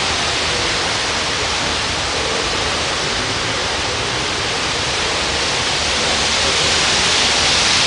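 Squall-line windstorm: a steady rushing of wind and rain, swelling slightly near the end.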